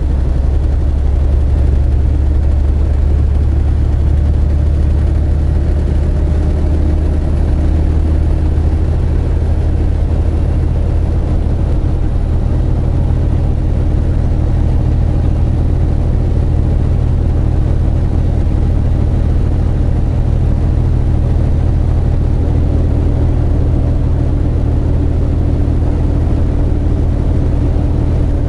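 Semi truck's diesel engine droning steadily inside the cab while driving in the upper gears, a low, even hum whose tone shifts slightly a couple of times.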